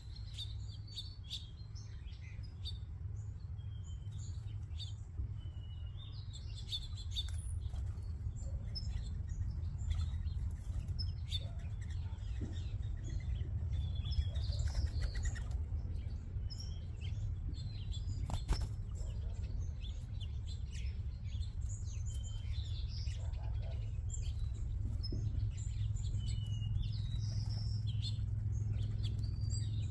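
Many small seed-eating birds chirping over each other at a backyard feeder, with short wing flutters and clicks as birds come and go, over a steady low rumble.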